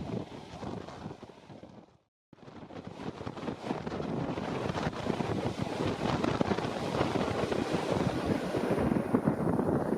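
Wind buffeting the microphone over the running noise of a moving train. The sound cuts out completely for a moment about two seconds in, then returns and grows louder.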